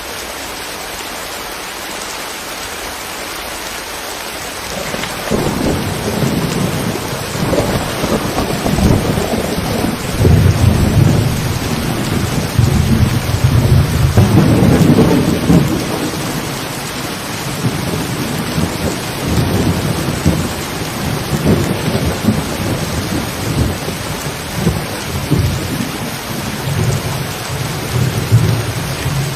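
Steady rain falling, then about five seconds in a long rolling rumble of thunder builds over it. The thunder is loudest around the middle and keeps rumbling more weakly until near the end.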